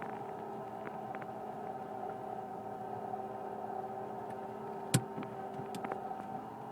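Mitsubishi Pajero iO engine running with a steady whining drone, the abnormal noise that the owner first took for a belt; mechanics have blamed it variously on worn alternator bearings, a failing air-conditioning compressor or a worn water pump. A sharp click about five seconds in.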